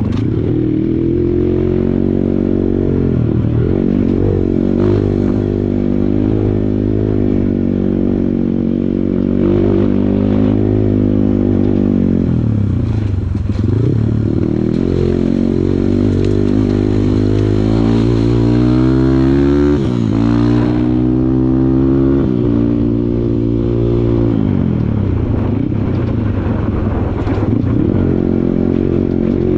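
Kawasaki KLX140 trail bike's single-cylinder four-stroke engine pulling under load on a trail. Its pitch rises and falls again and again as the throttle is opened and closed, with a sharp drop about two-thirds of the way through.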